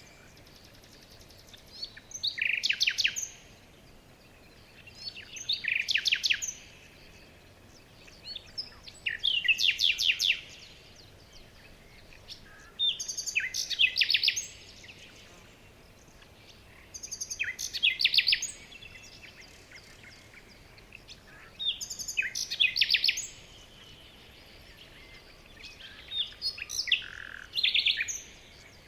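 A songbird singing short, high trilled phrases of rapid notes, repeated about every four seconds, over a faint steady hiss.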